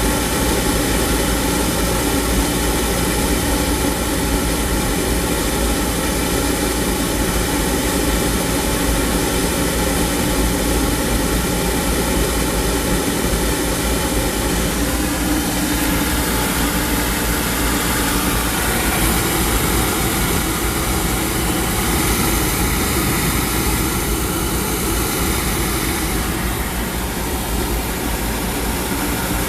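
Oil furnace's gun-type oil burner running: a loud, steady mechanical drone from the burner motor, blower and flame, with several held tones. The tone shifts a little about halfway through.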